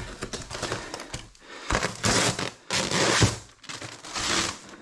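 Crinkling, scraping handling noises in several short bursts, the loudest about two, three and four seconds in.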